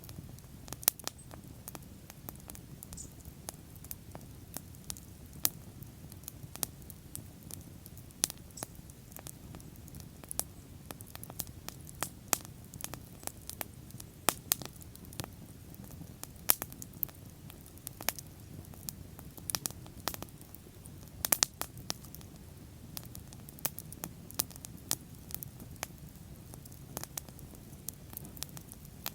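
Wood bonfire crackling, with irregular sharp pops and snaps, a few of them louder, over a steady low rush of the flames.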